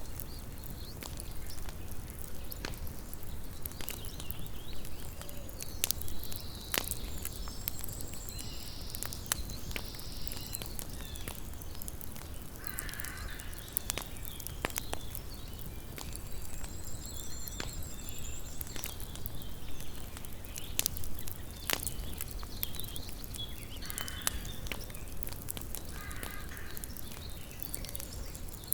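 Campfire burning with frequent sharp crackles and pops from the wood. A few short bird calls sound in the background, one about halfway through and two more near the end.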